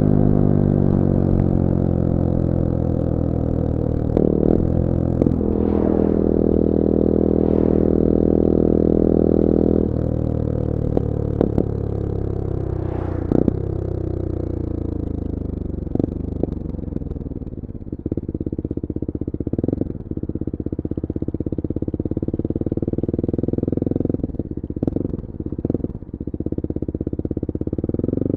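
CF Moto-engined Bullit Hero 250cc four-stroke motorcycle engine heard while riding. The note holds steady, then falls away about ten seconds in as the bike slows, and rises again in the second half as it picks up speed.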